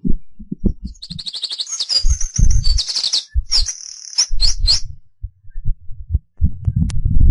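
A songbird singing a run of quick high trills and sharp sweeping notes. Under it, gusts of wind buffet the microphone with a low rumble that becomes steady near the end.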